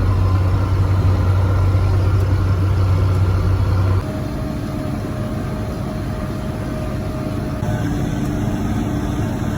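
Tractor engine running steadily while mowing hay, heard from inside the cab. About four seconds in, the sound abruptly drops in level and loses its deep hum, then runs on steadily.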